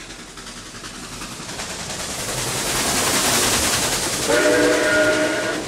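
Passenger train running through a tunnel, its wheel and running noise growing louder with fast, even clicking. About four seconds in it sounds a signal: a chord of several steady notes held for just over a second.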